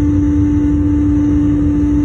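Airliner engine and cabin noise heard from inside the passenger cabin: a steady low rumble with an unchanging droning hum.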